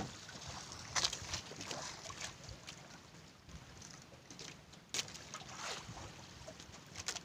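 Faint wind and water noise on a small fishing boat, with a few sharp knocks, one about a second in and a louder one near five seconds.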